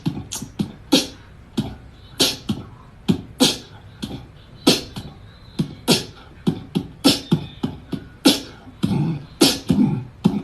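A fast, irregular run of sharp clicks and thuds, roughly two to three a second, some with a low thump under them.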